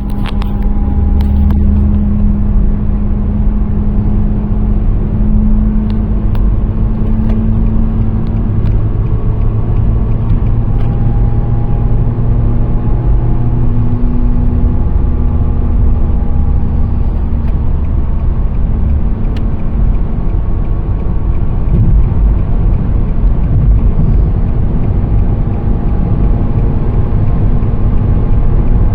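A 2017 Nissan Sentra SV driving, with a steady low hum over continuous road rumble; the hum drifts slightly in pitch and comes and goes.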